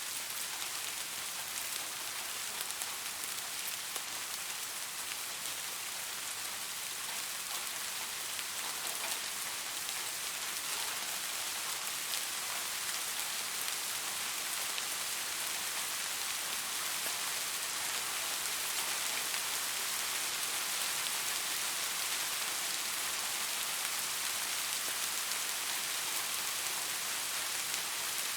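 Steady rainfall, a dense patter of drops hitting a surface, with no thunder.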